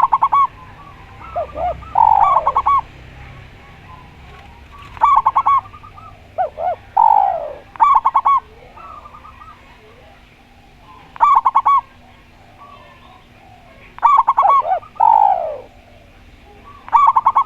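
Spotted dove and zebra dove cooing in turn. Quick stuttered series of short coos come every few seconds, mixed with longer coos that fall in pitch.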